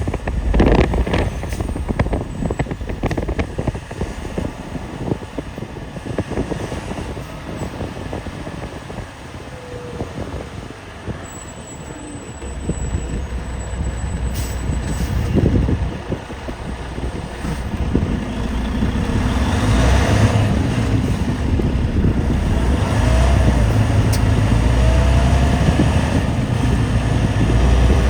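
Motor vehicle driving through snow: engine and road rumble with crackling wind buffeting on the microphone, the low rumble growing louder and steadier after about two-thirds of the way through.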